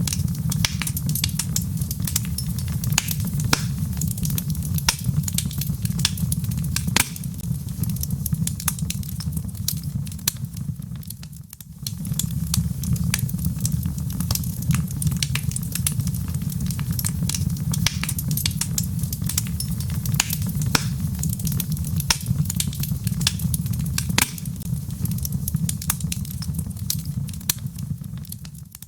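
Wood logs burning in a fireplace, with frequent sharp crackles and pops over a steady low rumble. The sound dips briefly about eleven seconds in.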